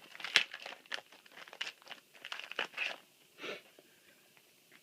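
Yu-Gi-Oh! booster pack wrapper being crinkled and torn open by hand, a quick run of sharp crackles for about three seconds that then falls quiet.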